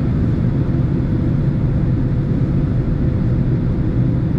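Steady low rumble of a Boeing 767 airliner's engines and airflow heard inside the passenger cabin, with a faint steady hum above it.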